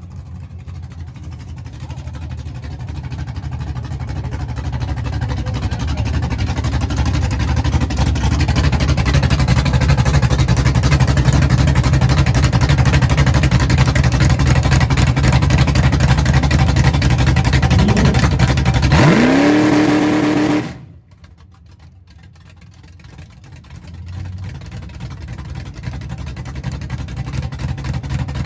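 1976 Chevy Nova's 355 small-block Chevy V8 running loud and steady, growing louder as it comes close. About two-thirds of the way in it revs up in one fast rising sweep, then the sound cuts off abruptly. After the cut the engine is heard again more quietly, building back up.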